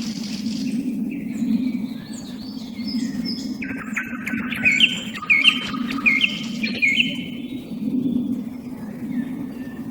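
A song thrush and a common nightingale singing against each other in varied whistled phrases. In the middle, one bird repeats the same short upward-flicking note about four times. A steady low hum runs underneath.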